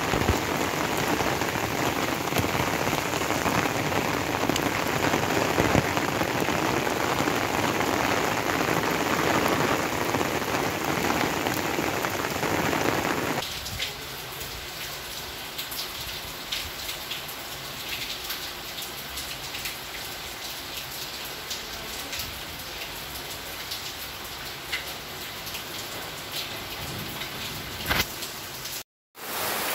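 Heavy rain falling in a steady hiss. About 13 s in it drops abruptly to a lighter rain with scattered drips.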